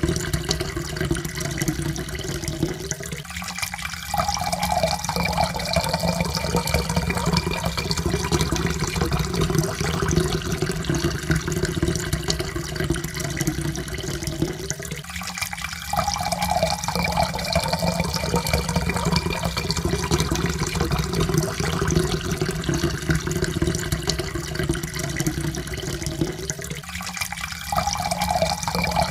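Water poured in a steady stream into a cup, its tone slowly rising as the cup fills. The pour breaks off and starts again about every twelve seconds, three times.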